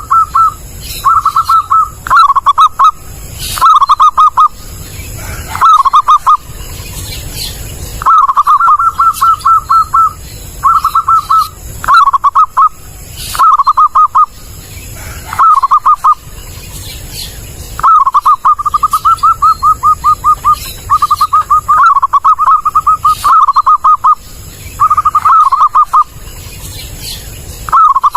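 Zebra dove (perkutut) calling loudly and clearly in repeated phrases. Each phrase is a rapid run of staccato cooing notes, lasting from half a second to about two seconds, with brief pauses between phrases.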